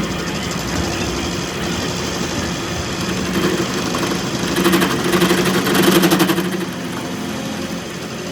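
A machine running with a steady hum that swells into a louder, harsher rasp from about four and a half to six and a half seconds in, then settles back.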